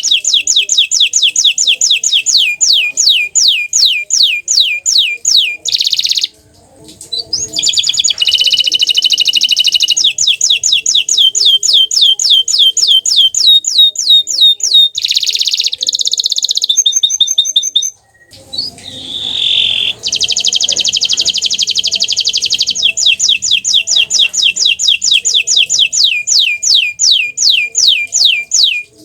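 Green domestic canary singing a long, loud song of rapid repeated down-sweeping notes, about three a second, with short breaks about six seconds in and again around eighteen seconds.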